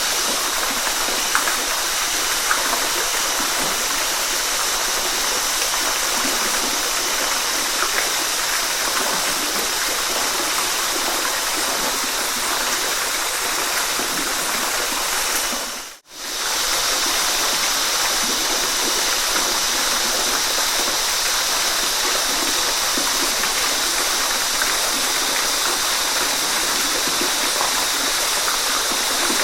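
Waterfall: a steady, dense rush of falling water. About halfway through it fades briefly almost to silence and swells straight back, a loop seam in the recording.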